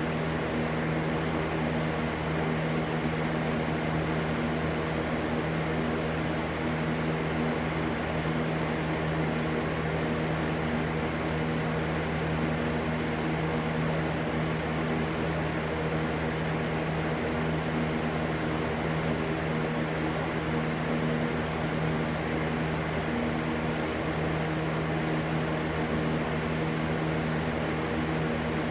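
Steady rushing white noise with a constant low motor-like hum beneath it, unchanging throughout.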